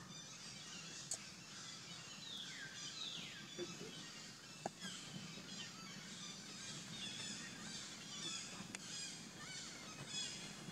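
Faint outdoor ambience of several birds chirping and calling, with a few downward-sliding calls a couple of seconds in and a few soft clicks.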